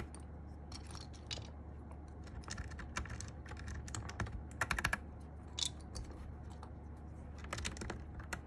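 Plastic keycaps being pressed onto the switch stems of a mechanical keyboard: irregular light clicks and clacks, with a quick run of four or five clicks about halfway through.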